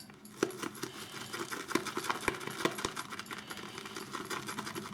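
Shaving brush whisking soap lather in a bowl: a steady run of quick wet clicks and crackles. The lather, with two teaspoons of water worked in, is still pasty.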